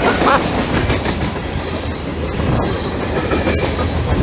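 Train rolling past at close range, a steady, loud rumble and clatter of wheels on the rails.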